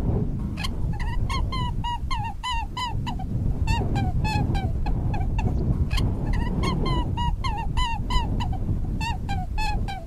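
A bird calling in a quick series of short chirps, about four a second, in two runs with a short break about three seconds in, over a steady low rumble.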